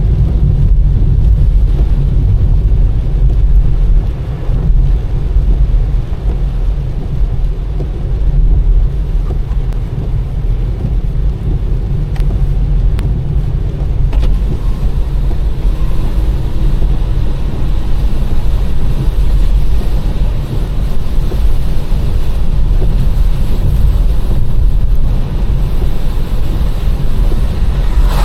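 Car driving at a steady pace: a continuous low rumble of road and engine noise.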